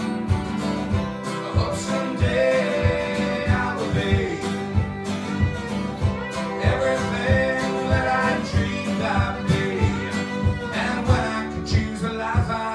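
Acoustic folk band playing a passage without words: strummed guitar on a steady beat, with a melody line moving above it.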